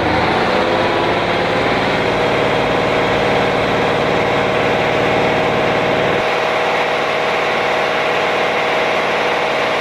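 An engine running steadily at a constant speed, with a held mid-pitched drone; its deepest rumble falls away about six seconds in.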